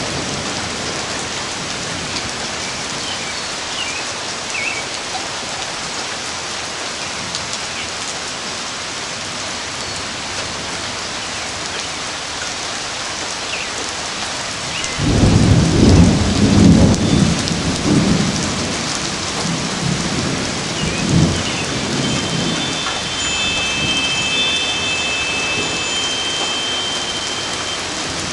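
Thunderstorm: steady rain falling. About halfway through, thunder breaks in suddenly and rumbles for several seconds, with another loud clap a few seconds later before it fades back under the rain.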